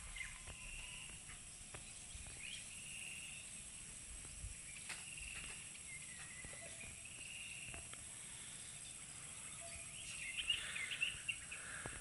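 Faint rural outdoor ambience with scattered short bird chirps, turning into a busier run of chirping about ten seconds in.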